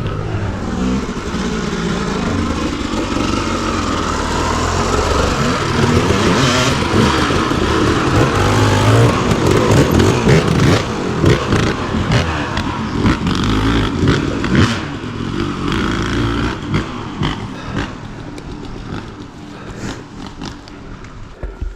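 Dirt bike engine revving hard under load on a rocky trail, with rocks and the tyre clattering and scraping. Loudest through the middle, with many sharp knocks, then easing off over the last few seconds.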